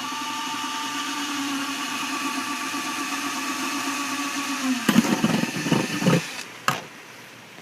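Electric drill running steadily as it bores a hole through the bottom of a plastic 5-gallon bucket, its pitch sagging slightly before it stops a little over halfway through. It is followed by about a second of loud irregular knocking and rattling, then a single click.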